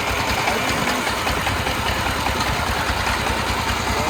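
Small 13.46-horsepower Chinese-made tractor engine running steadily with a rapid, even beat.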